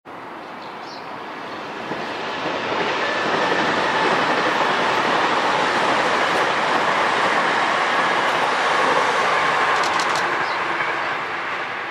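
A JR East E353 series electric multiple unit passing: its running noise swells over the first few seconds, holds steady while the cars go by, then fades near the end. A few sharp clicks come about ten seconds in.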